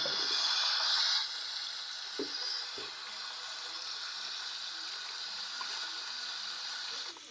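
LG washing machine's inlet valve letting water rush into the drum as the rinse cycle fills, a steady hiss of running water, louder for the first second and dropping off just before the end. Two faint knocks sound about two and three seconds in.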